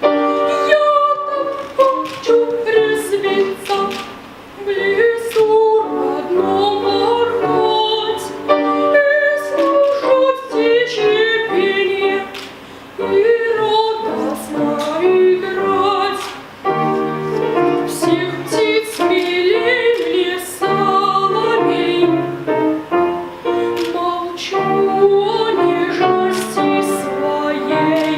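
Female voices singing a classical-style song in phrases with vibrato, with piano accompaniment.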